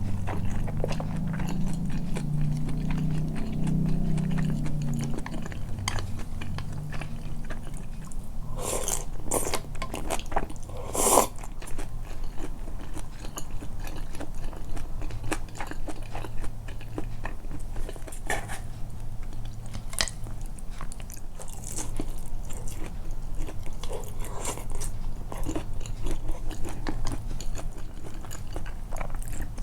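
Close-miked chewing and biting of a tempura and soba meal, the mouth sounds emphasised: soft, wet chewing rather than crisp crunching, as the tempura came out soggy. A few sharper clicks stand out about nine to eleven seconds in.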